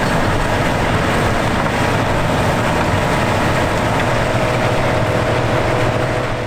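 Vintage farm machinery running steadily: a dense, unbroken mechanical rumble and rattle with a few faint steady tones running through it.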